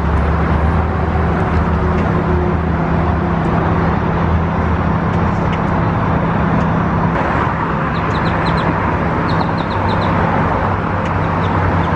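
A large flock of birds chirping over steady street traffic and a low engine hum; short high chirps come through clearly in the second half.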